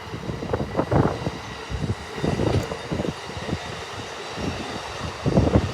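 A train passing: an uneven low rumble with a faint steady high tone above it.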